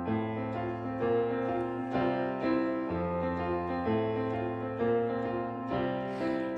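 Instrumental introduction of a children's song played on piano or electric keyboard, with the chords changing about once a second over a steady bass line.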